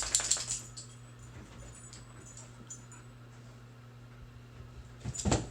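Pit bulls at play on a bed: a quick cluster of scuffling sounds at the start, then a short, loud dog noise near the end, over a steady low hum.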